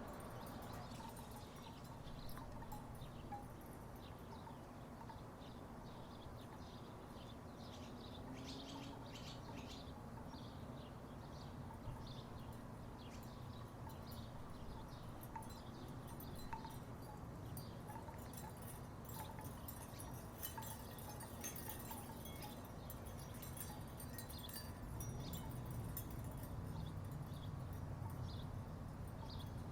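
Wooden tiki wind chimes knocking together faintly and irregularly, short hollow clacks scattered throughout. Under them runs a low steady rumble that grows slightly louder near the end.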